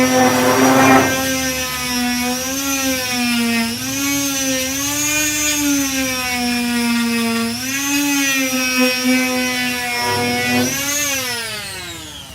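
Electric disc sander with a 240-grit disc, sanding body filler: its motor runs with a steady whine that dips and rises in pitch under load, with a rough rasp of the disc on the filler in the first second. About 11 seconds in it is switched off and winds down, the whine falling away.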